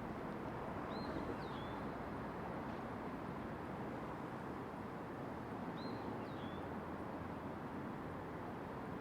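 Steady hum of distant city traffic, with a bird calling twice, each time a short high chirp followed by a quick down-slurred note, about a second in and again about six seconds in.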